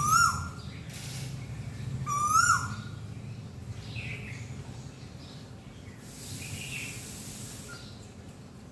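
A bird calling: a loud whistled note that rises then drops, given at the start and again about two seconds later, with fainter chirps from other birds and a steady low hum in the background.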